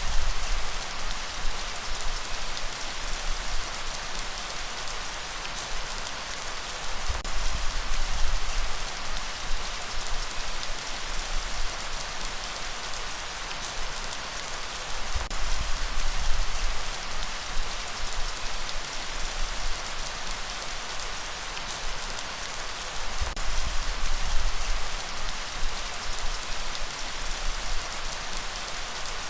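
Steady rain falling, a dense hiss of drops with fine ticks, under a low rumble that swells about every eight seconds.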